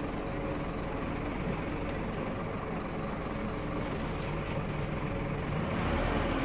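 Scania K230UB Wright Solar bus's five-cylinder diesel engine running steadily under way, a continuous drone that grows a little louder near the end.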